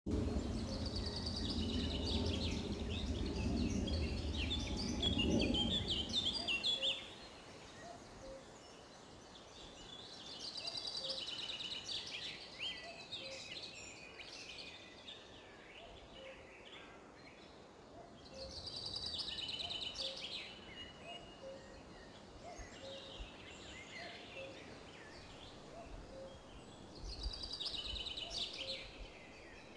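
A songbird singing in short bursts of high chirping phrases, about every eight seconds, over faint meadow ambience. A low rumble on the microphone covers the first six seconds.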